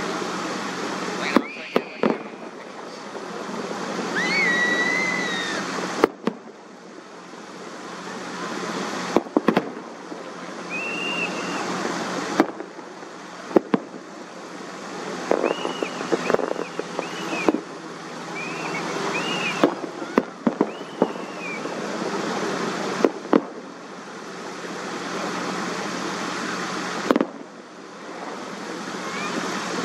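Distant aerial fireworks: sharp bangs of shells bursting every few seconds, some single and some in quick clusters, over a steady rushing background.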